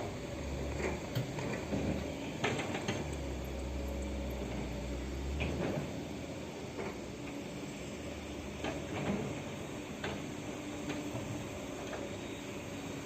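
Loaded dump truck running at low engine speed, with a low rumble in the first half and scattered metallic clanks and rattles throughout.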